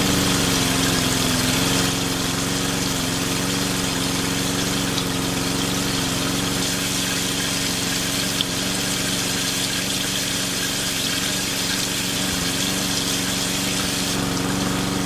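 A small motor running at a steady speed: a constant, even hum with a hiss over it.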